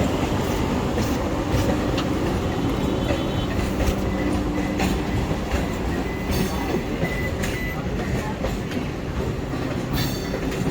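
Vande Bharat Express train set running on the track: a steady low rumble with scattered clicks of the wheels over rail joints and a faint thin whine.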